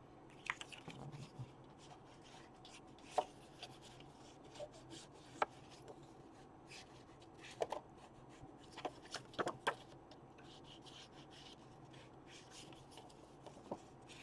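Ink being rubbed onto the edges of paper cards: soft, intermittent rubbing of an ink applicator on paper, with scattered light taps and clicks as the cards are handled.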